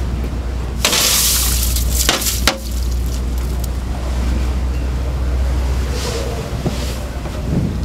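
A shovel scooping and tipping ice into fish tubs: a hissing rush about a second in that ends in a sharp knock, and a softer rush near the end. Under it runs the steady drone of the fishing boat's engine.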